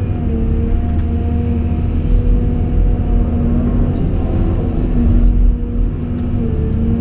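Caterpillar 349E excavator running: a steady low engine rumble under a higher whine that sets in and drops away every second or so as the hydraulics work.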